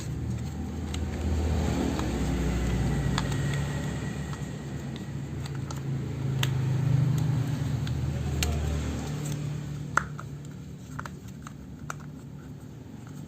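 A low, steady engine-like hum that fades out about nine seconds in, with scattered sharp clicks and knocks throughout.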